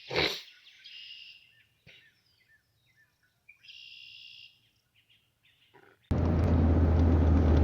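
Birds singing two short phrases over near quiet. About six seconds in, a car's steady engine and road noise cuts in abruptly and is the loudest sound.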